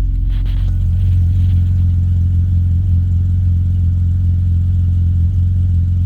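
BMW 328i's 2.8-litre straight-six idling steadily on a cold start, heard through its exhaust with an aftermarket MagnaFlow muffler. It gives a deep, even hum that rises slightly about a second in.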